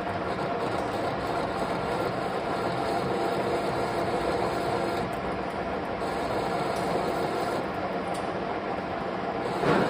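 Metal lathe running steadily, an even mechanical hum and noise with faint steady tones in it. A brief louder surge of noise comes near the end.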